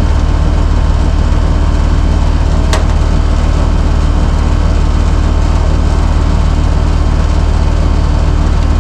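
Air conditioning system running: a steady, loud low hum with no change in speed, and a single short click about three seconds in.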